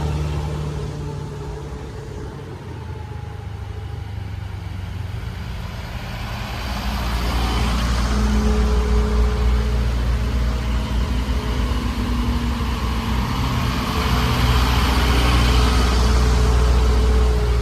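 Heavy vehicle engine running, a low rumble that eases off early on and then builds louder twice as it pulls.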